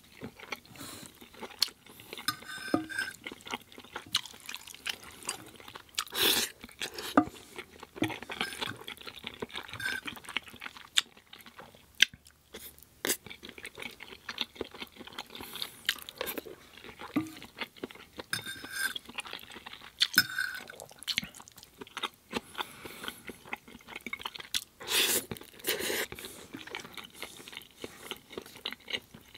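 Close-miked chewing of soft pasta with vegan sausage: wet, irregular mouth sounds and bites. Now and then a metal fork and a wooden spoon click against the plate.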